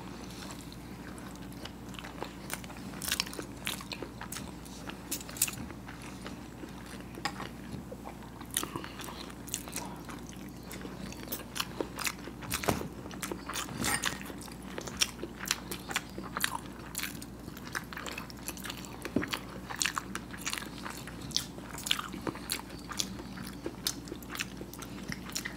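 Close-up eating sounds of people biting and chewing hard-boiled eggs coated in masala sauce, with many short wet mouth clicks throughout.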